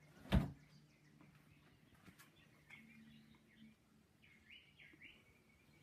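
A single sharp thump about half a second in, followed by faint, short bird chirps over a low steady hum.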